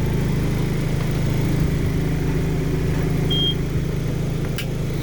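Steady low idling drone from the Coachmen Santara motorhome's running machinery, which is keeping the air conditioning going, with a short high beep about three seconds in and a click near the end.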